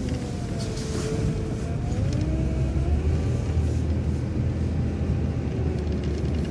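City transit bus engine and drivetrain running under way, a low rumble that builds about two seconds in, with a thin whine above it that wavers up and down in pitch.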